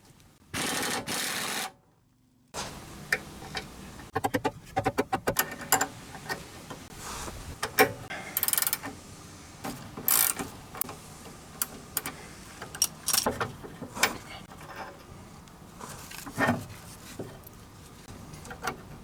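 Hand tools on a car's rear suspension: a ratchet wrench clicking in quick runs, and metal parts and tools clinking and knocking. A second-long burst of noise comes near the start.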